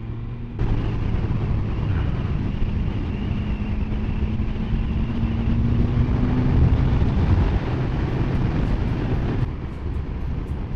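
Triumph Sprint 1050 GT's three-cylinder engine running at a steady cruise under heavy wind rush on a rider-worn microphone. The engine note climbs slowly for several seconds, and the wind noise drops sharply near the end.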